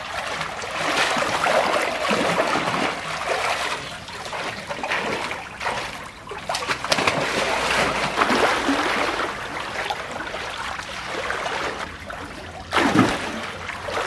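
Swimming-pool water splashing and sloshing unevenly as someone swims in it, with a sharper, louder splash near the end.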